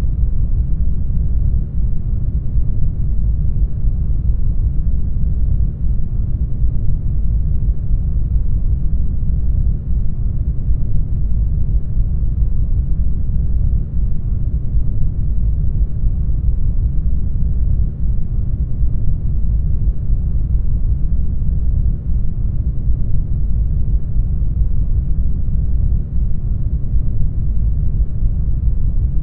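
Brown noise: a steady, deep rumbling hiss with most of its weight in the bass, with a slight dip in loudness about every four seconds where the loop repeats.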